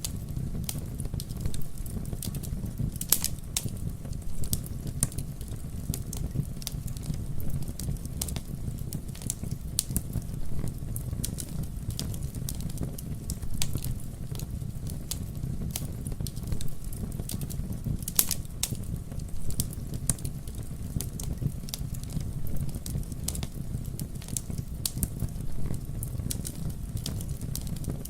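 Campfire burning steadily with a low rumble, crackling with many small irregular pops and two louder snaps, one a few seconds in and one a little past the middle.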